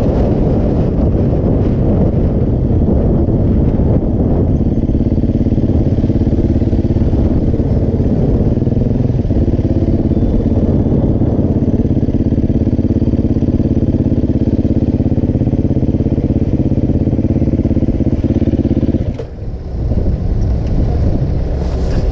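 Supermoto motorcycle engine heard from on the bike, riding with wind noise at first, then idling steadily. About nineteen seconds in, the idle note breaks off with a brief drop in loudness before engine and road noise resume.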